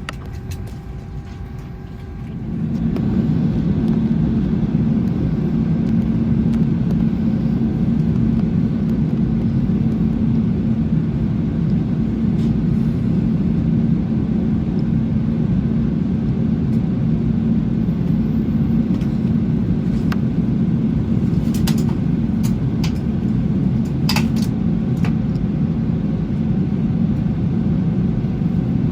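Steady low rumble of airliner cabin noise inside an Airbus A321, which rises sharply about two and a half seconds in and then holds level. A few faint clicks come in the second half.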